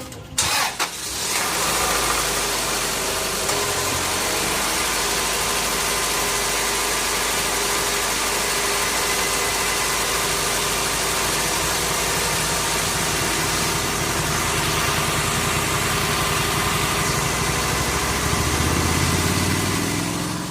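Acura Integra GSR's 1.8-litre DOHC VTEC four-cylinder engine cranking and catching in the first second or so, then idling steadily with its new carbon fiber air intake fitted; the idle pitch rises slightly near the end.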